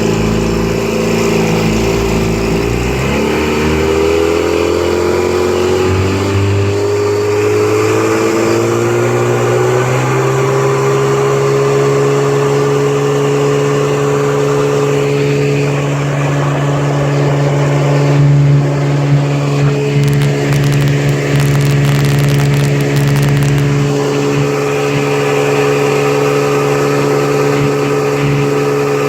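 1954 Johnson RDE-16 25 hp two-cylinder two-stroke outboard motor opened up from low speed. Its pitch rises steadily over the first ten seconds or so, then it runs evenly at high speed.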